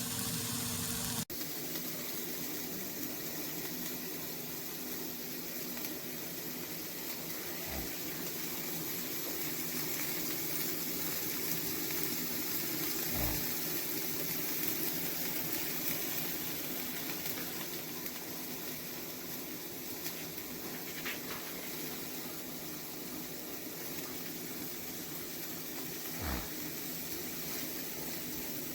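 Steady sizzling hiss of burgers cooking on an electric indoor grill, with a few faint knocks.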